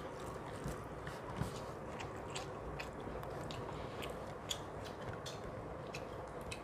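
Faint eating sounds: people chewing mouthfuls of rice and curry, with small scattered clicks over a steady background hiss.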